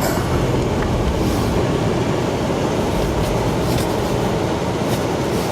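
A vehicle's engine running steadily with a continuous low rumble, working through deep snow.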